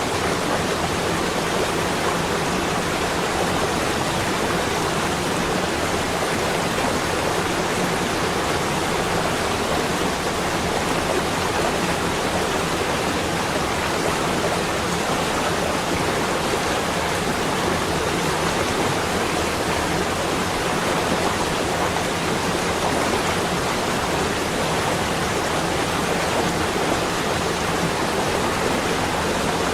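Steady, unbroken rushing noise, even from low to high pitches, with no separate drops, gusts or other events: a continuous nature-ambience bed of wind or falling water.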